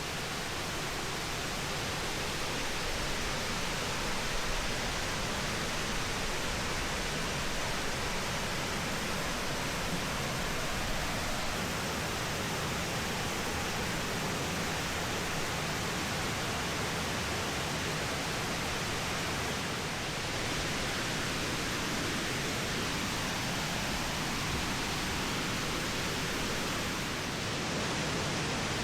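High Shoals Falls, a waterfall about 50 ft high, pouring steadily: an even, unbroken rush of falling water.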